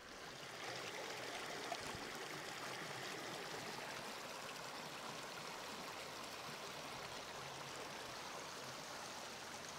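Stream of running water, a steady even rush.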